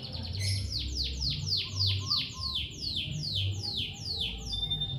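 Lovebird calling: a fast run of shrill falling chirps, about three a second, ending in a short steady note near the end.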